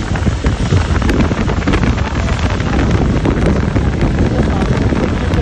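Wind buffeting the microphone: a loud, steady rumble of noise.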